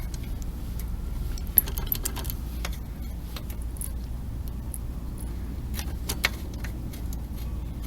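Scattered small metallic clicks and clinks of a hand wrench working the chain tensioner bolt on a mini bike, at an uneven pace.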